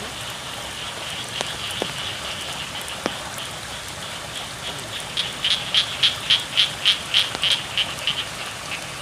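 Frogs calling in a rain-soaked rice field over the steady hiss of rain. About halfway in, one frog gives a loud run of rapid croaks, about four a second, for roughly three seconds.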